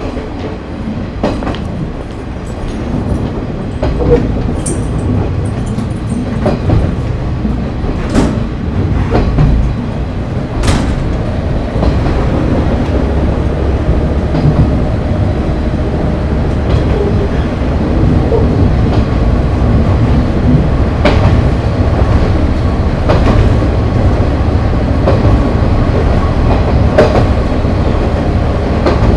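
KiHa 30 diesel railcar running on the line, heard from inside the car: its DMH17 diesel engine and the low rumble of the wheels, growing louder over the first dozen seconds and then holding steady, with occasional sharp clacks as the wheels cross rail joints.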